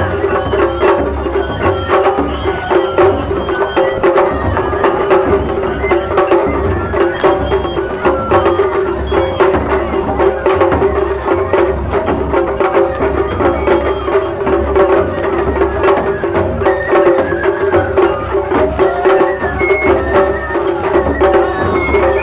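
Japanese festival music with a dense, steady beat of sharp percussive strikes over a sustained tone, continuing without a break.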